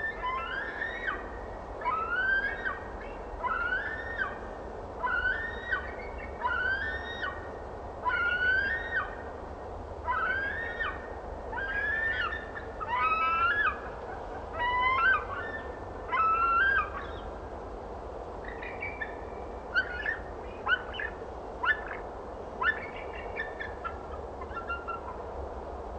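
A bird calling over and over, about once a second, each call a short rising note with overtones; after about two thirds of the way through the calls turn shorter and more scattered.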